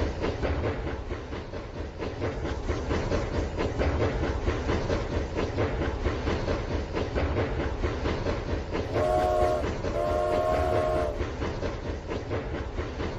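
Battery-powered Rail King toy train running on its plastic track with a steady rattling clatter. About nine seconds in, its built-in sound effect gives two whistle toots, the second longer.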